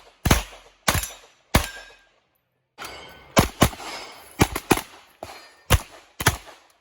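Competition gunfire on a shooting stage: about nine sharp shots, some single and some in quick pairs about a quarter second apart. There is a brief dead-silent break about two seconds in, where the recording cuts.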